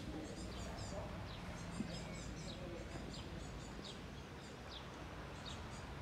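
Small birds chirping in the garden trees: many short, high, falling notes in quick succession, over a steady low background hum of outdoor noise.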